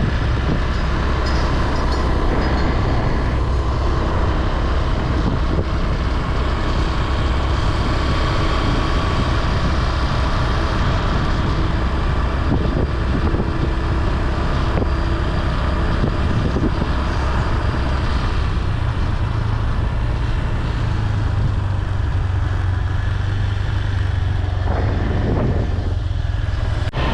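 Vehicle driving along a road: steady engine and road noise, the low engine note growing stronger about twenty seconds in.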